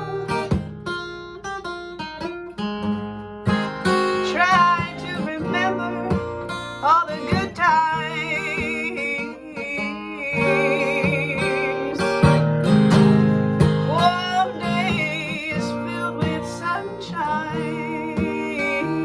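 Acoustic guitar played in a folk style, mixing picked notes and strums, with a gliding, wavering melody line over it.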